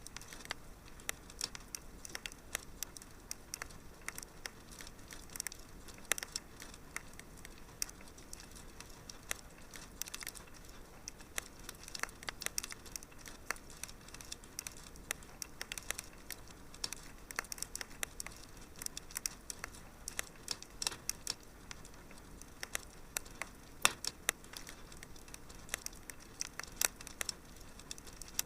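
Fire crackling in a fireplace: many irregular sharp pops and snaps over a faint steady hiss, with a few louder snaps scattered through.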